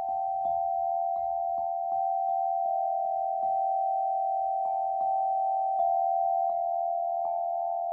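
Meditative sound-healing music: a few sustained, bell-like pure tones held close together in pitch, with soft mallet strikes about every half second to a second that each shift the mix of tones slightly.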